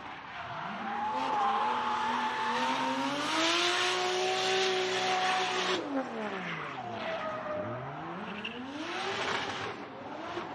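Racing car engine revving, its pitch climbing slowly and holding high, then dropping steeply about six seconds in as the car passes by, followed by a further pass with pitch falling and rising again.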